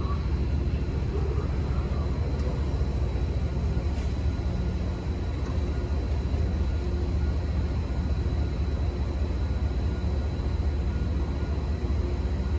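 MBTA Commuter Rail diesel train standing at the platform, idling with a steady low rumble and a thin, steady high whine above it.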